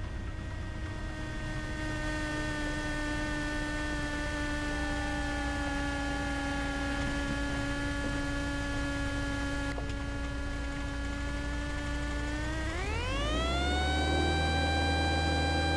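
Cessna 172 engine sound through the cockpit intercom: a steady whine that follows engine speed, the typical alternator whine, sits low at idle power. About 13 seconds in it climbs steeply and settles much higher, with a deeper engine and propeller drone joining, as the throttle goes to full power for the takeoff part of a touch-and-go.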